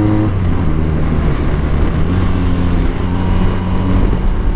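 BMW R1250 RT's boxer-twin engine running on the road over a heavy low rumble, its pitch dropping about a quarter second in and then shifting down and up in small steps.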